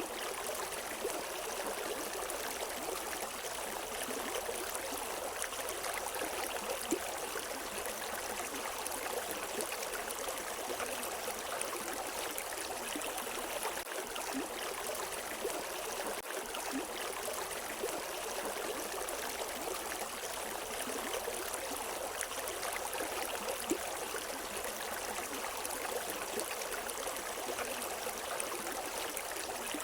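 River water flowing over rocks in a steady, even rush, with no birds.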